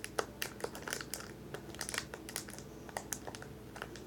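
Irregular crinkling and crackling as slime is worked out of its plastic packaging by hand.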